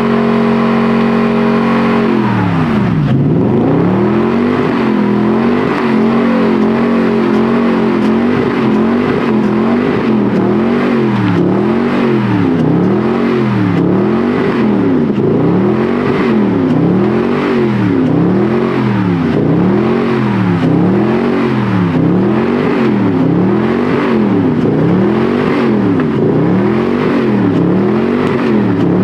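Truck engine held at high revs, then from about two seconds in revved up and down over and over, rising and falling in pitch about once every second and a half to two seconds.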